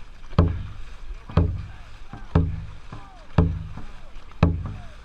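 Dragon boat drum struck in a steady beat, about once a second, setting the paddlers' stroke rate. A voice calls briefly between some beats.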